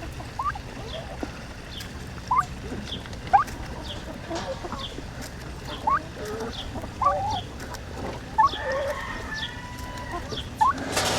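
Backyard chickens clucking and calling while feeding on scattered scratch: short rising calls about once a second, with a longer held call near the end.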